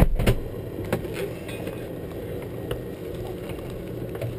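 Helicopter running: a steady low rumble with a few faint clicks.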